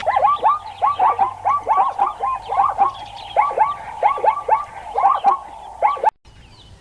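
A flock of birds calling together, many short falling calls overlapping in quick succession, cut off abruptly about six seconds in.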